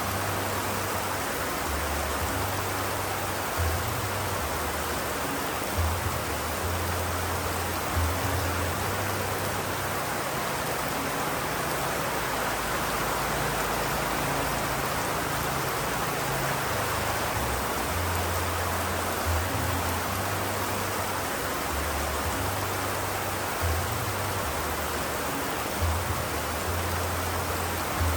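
Steady rain, an even hiss with no breaks, with a low hum underneath that comes and goes every few seconds.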